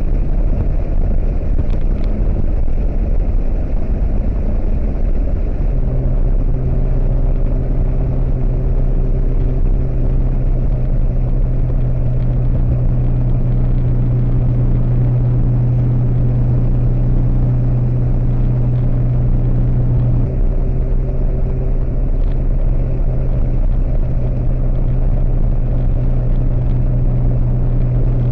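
1979 Pontiac Trans Am's 400 V8 running at a steady cruise with tyre and road noise, heard from inside the car. The engine drone grows stronger about six seconds in and eases back around twenty seconds in.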